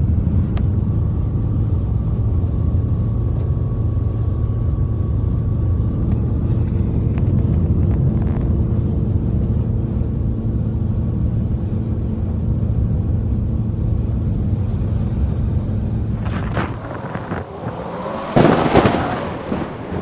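A steady low motor drone with a few held tones, like a vehicle running at an even speed. Near the end it gives way to loud, gusting wind rushing over the microphone.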